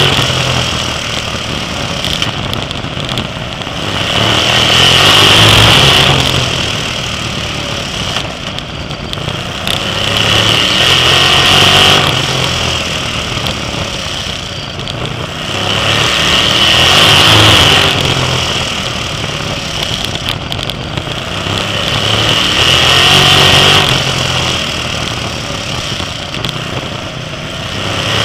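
Sprint car V8 engines at racing speed, the sound swelling under full throttle and dropping back when they lift, in a regular cycle about every six seconds.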